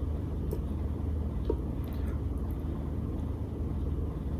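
Steady low hum with a couple of faint clicks.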